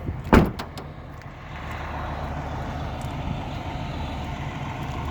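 Steady low rumble of a vehicle, with a single sharp knock about a third of a second in.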